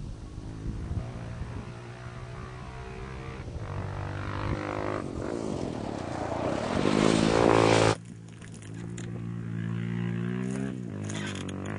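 Rally bike engines running hard: one climbs steadily in pitch as it accelerates, then cuts off abruptly about eight seconds in, and another engine drones on at a steadier pitch.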